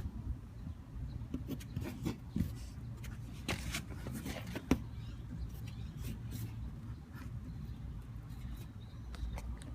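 Low steady rumble with irregular light taps and clicks scattered through it, the loudest about two-thirds of the way in. This is the flapping noise on a 2014 Ford Mustang that the owner is asking about.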